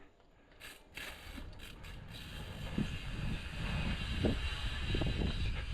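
Wind rushing over the microphone with a low rolling rumble while riding a bicycle, growing louder as speed builds. It sets in after a brief dropout at the start.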